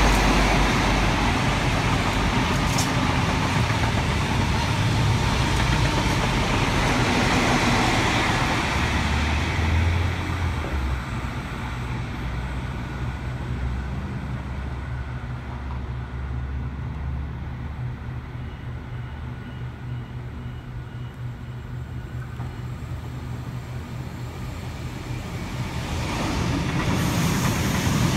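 A loud vehicle rumble fades after about ten seconds, followed by quieter background rail and traffic noise. Near the end, a double-deck electric suburban train grows louder as it runs in alongside the platform.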